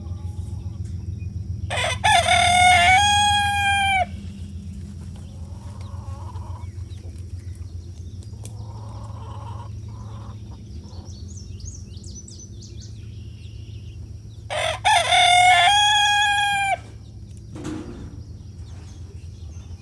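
A rooster crowing twice, each crow about two seconds long, the second coming about twelve seconds after the first, over a steady low rumble.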